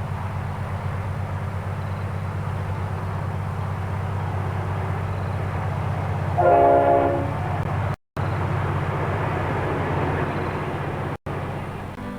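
A train running with a steady low rumble, sounding its horn in one blast of about a second roughly halfway through. The sound cuts out completely twice, briefly, near the end.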